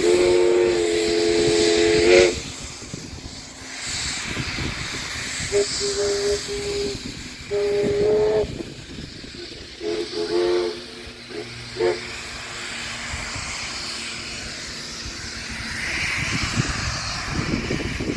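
Steam locomotive whistle: one long blast of about two seconds, then a string of shorter toots, over the hiss of escaping steam.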